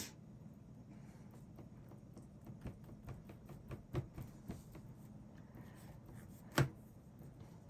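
Faint, irregular taps and light scrapes of a paintbrush working paint, with one sharper knock near the end.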